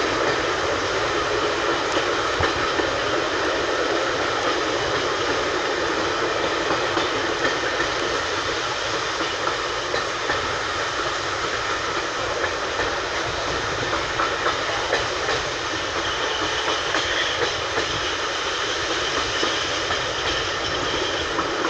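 Passenger carriage rolling along on the rails, a steady running noise heard from inside the coach, with a few faint clicks of the wheels over the track.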